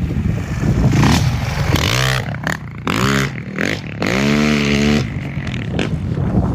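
A vehicle engine running, then revved three times about a second apart, its pitch rising and falling each time, the last rev held for about a second before it drops back.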